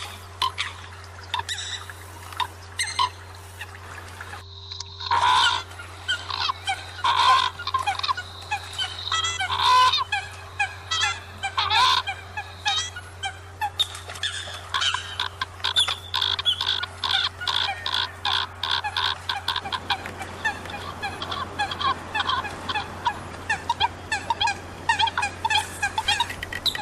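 Eurasian coots calling: a dense run of short, repeated honking calls from several birds, as in a flock-call recording. A steady low electrical hum runs underneath, and there is a brief gap about four and a half seconds in.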